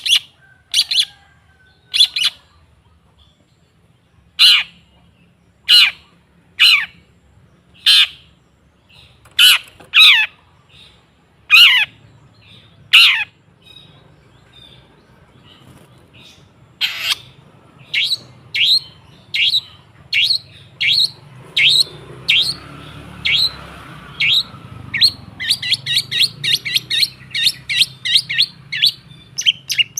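Long-tailed shrike (cendet) giving short harsh calls, each dropping quickly in pitch. The calls come about once a second, stop for a few seconds in the middle, then speed up into a rapid run of several calls a second near the end.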